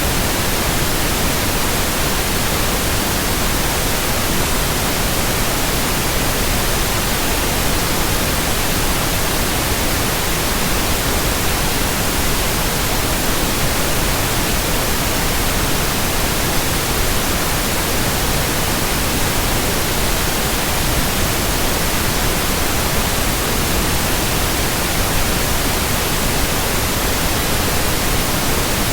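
Steady, unvarying white-noise hiss of a relaxation sound track, spread evenly from low rumble to high hiss, with no hum, rhythm or change.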